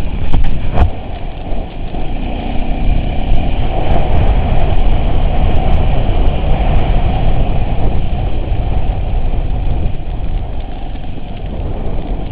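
An off-road vehicle's engine running steadily under a loud low rumble, with a few sharp knocks in the first second.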